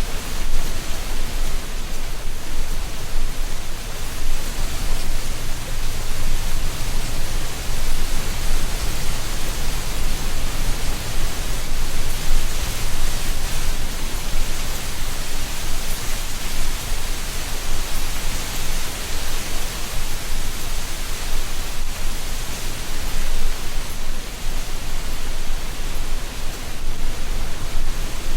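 Steady wind through a tree canopy, dry leaves rustling in a continuous hiss that rises and falls slightly, with a low rumble underneath.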